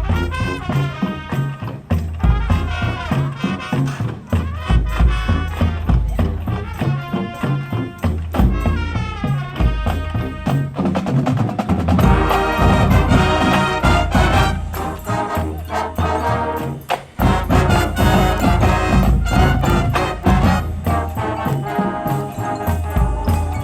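Marching band playing: brass horns over a drumline and bass drums, the full band coming in louder about halfway through.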